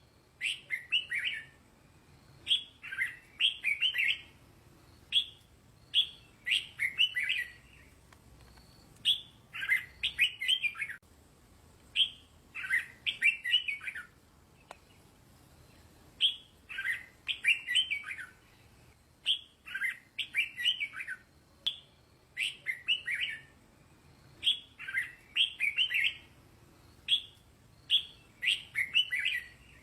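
Red-whiskered bulbul singing: short, quick, warbling phrases repeated every second or two, with a brief pause about halfway through.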